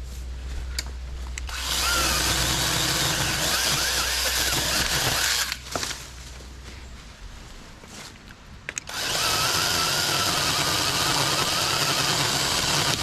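Saker 20-volt cordless mini chainsaw on a pole extension running and cutting into a tree limb in two bursts: the first begins about a second and a half in and lasts about four seconds, and the second starts about nine seconds in. The saw bogs down in the cut, which the user puts down to feeding it too quickly.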